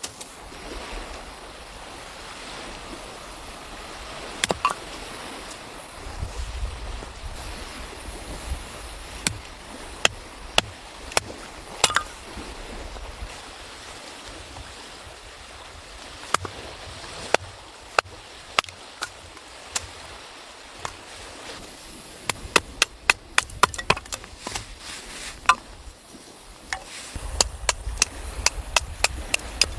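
Sharp, irregular cracks and knocks over a steady hiss. They are scattered at first, then come in quick clusters late on. Low gusts of wind rumble on the microphone now and then.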